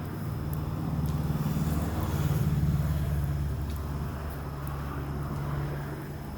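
A low, steady motor-vehicle engine hum that swells two to three seconds in and then eases off, with scattered faint crackling pops from the fire.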